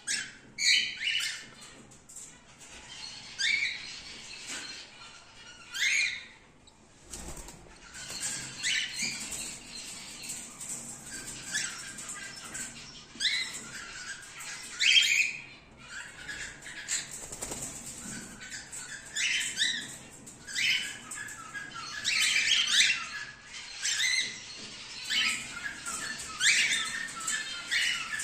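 A flock of cockatiels calling in an aviary: repeated chirps and squawks, many overlapping, with a brief lull about seven seconds in.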